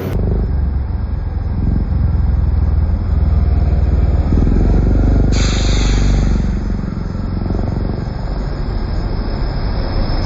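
Yamaha Aerox 155 scooter's single-cylinder engine running under way, loudest through the middle and easing off later, with a brief hiss a little past halfway.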